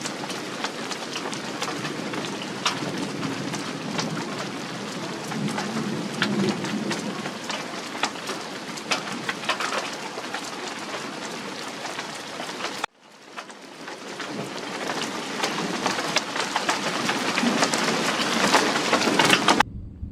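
Heavy thunderstorm rain with many close drop ticks, and a low thunder rumble under it in the first part. The sound drops out suddenly about two-thirds of the way through, swells back, and cuts off just before the end.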